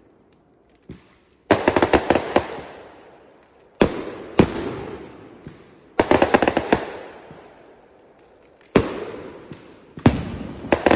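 Fireworks going off: a faint pop about a second in, then bursts of rapid sharp cracks every two seconds or so, each trailing off in a fading crackle.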